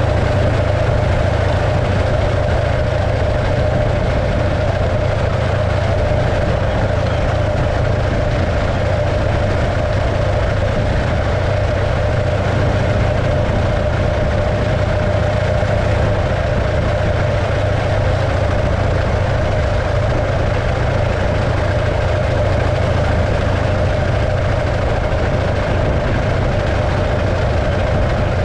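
1915 Arcade motorcycle's 650cc JAP V-twin engine running at a steady, unchanging speed.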